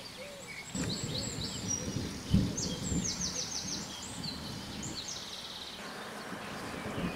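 Songbirds singing, with several quick, repeated trills high in pitch. In the first half there is low rumbling noise, with a loud thump about two and a half seconds in.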